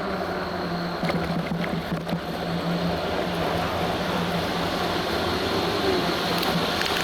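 Steady engine noise from construction-site machinery, with a constant low hum under a broad rumble and a few faint clicks, growing slightly louder near the end.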